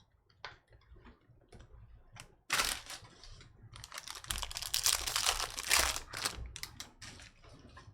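Trading cards and pack wrappers being handled: scattered small clicks of cards sliding and flicking, with two longer rustling stretches, about two and a half and four seconds in.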